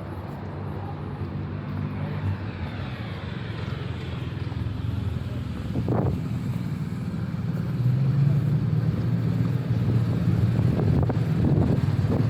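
City street traffic: a motor vehicle's engine running close by, a steady low hum that grows louder from about eight seconds in. A single sharp knock about six seconds in.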